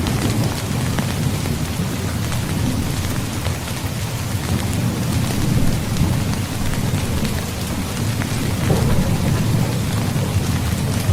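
Heavy rain falling steadily, with a continuous low rumble of thunder underneath that swells and eases.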